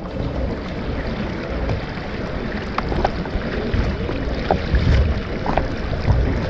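Wind rumbling on the microphone over the sound of water around a kayak at sea, with a few brief ticks in the middle.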